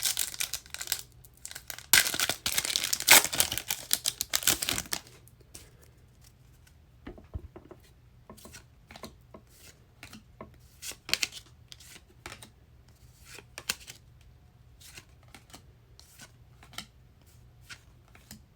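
A trading-card pack's plastic wrapper crinkling and tearing open for the first five seconds or so, then scattered light clicks and taps as the cards are handled and flipped through.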